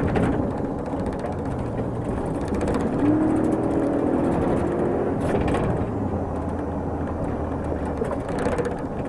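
A car driving, its engine and road noise steady, with the engine pitch rising about two and a half seconds in and holding briefly.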